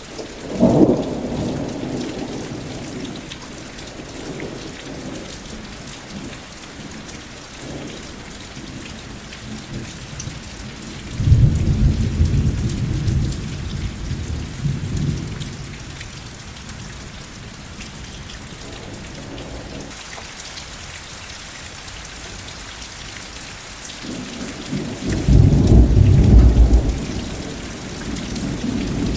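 Steady rain falling, with thunder rumbling three times. There is a sharp clap just under a second in that fades over a few seconds, a long rolling rumble from about eleven seconds in, and a louder one near the end.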